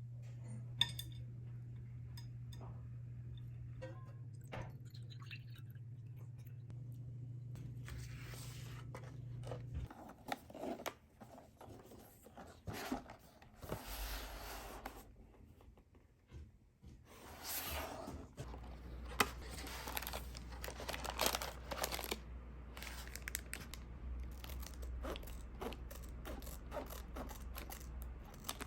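A run of short crunching and crackling noises, sparse at first and growing thick and frequent about halfway through, over a low steady hum.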